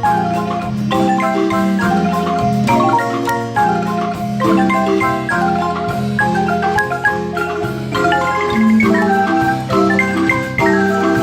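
Marimba ensemble playing a piece of music: a busy mallet melody above steady rolled bass notes.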